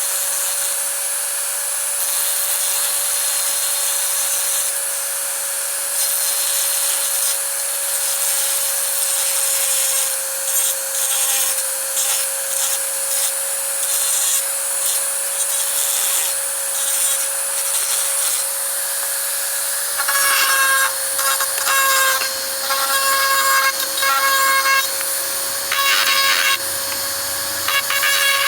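A power tool running with a steady whine and working against a workpiece in uneven rubbing passes. From about twenty seconds in it bears down harder in short, louder bursts.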